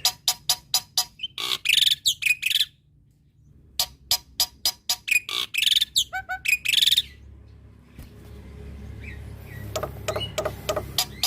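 Male black-winged myna (jalak putih) singing: quick runs of sharp clicking notes broken by harsh, rasping phrases, with a short pause about three seconds in and a quieter stretch before the clicking picks up again near the end.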